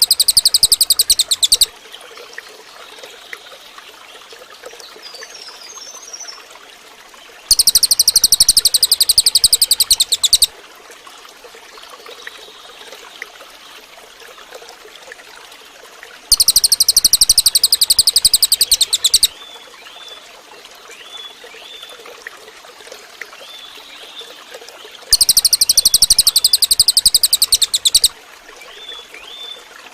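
Cililin bird singing: a loud, rapid, high trill lasting about three seconds, given four times about nine seconds apart, with a few soft short falling notes between. A steady trickling stream runs beneath.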